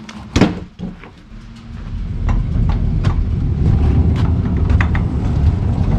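A single knock, then the gas engine of a Woodland Mills bandsaw sawmill comes up about a second and a half in and runs steadily with a low hum.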